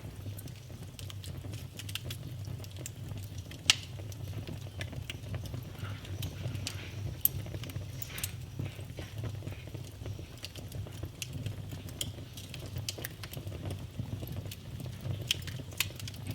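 Wood fire burning in a fireplace: a steady low rumble of flames with scattered crackles and pops, the sharpest about four seconds in and just after seven seconds.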